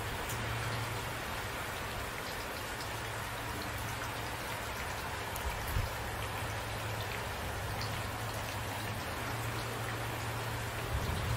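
Steady rain falling, with scattered individual drop taps over an even hiss and one brief low thump a little past halfway.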